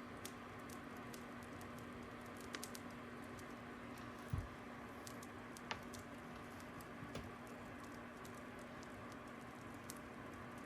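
Fire crackling: irregular sharp pops and snaps over a steady hiss, with one louder low thump about four seconds in.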